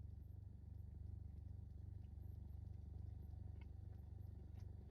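Steady low hum with a few faint clicks in the second half.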